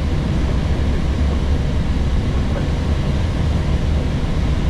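Steady rush of airflow and engine noise inside an Airbus A321neo cockpit in flight, with a deep, constant low rumble.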